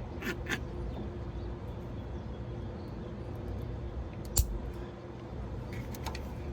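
A steady low machinery hum, with a few light clicks near the start and one sharp click about four and a half seconds in.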